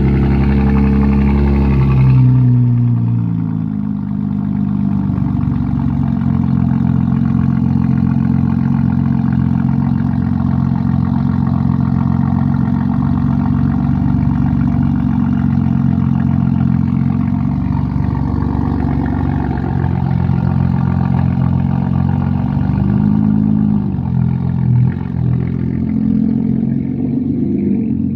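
BMW M3 Competition's twin-turbo S58 straight-six on a cold start: the high, loud start-up idle drops to a lower steady idle about two seconds in. Near the end the pitch rises and falls a few times in short revs.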